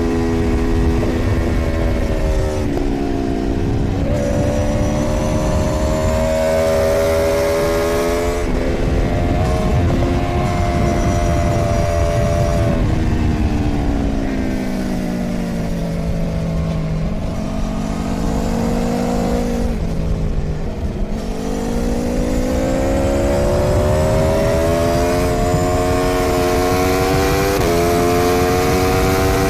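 Aprilia Tuono V4 motorcycle's V4 engine at track pace, heard from on board with wind rush. The revs climb with several quick upshifts, fall away through the middle as the bike slows and downshifts for a corner, then climb through the gears again.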